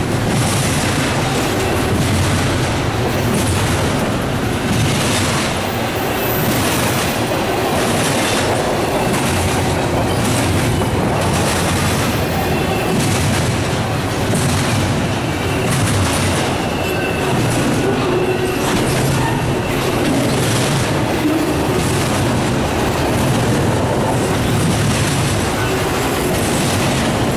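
Double-stack intermodal well cars rolling past close by: a steady rumble of steel wheels on rail, with a rhythmic clatter about every second and a half as the car trucks pass. A faint wheel squeal comes through near the middle.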